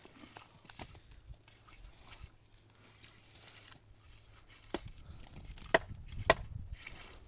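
Sharp knocks or blows: light scattered clicks, then three loud strikes in the last two and a half seconds over a low rumble.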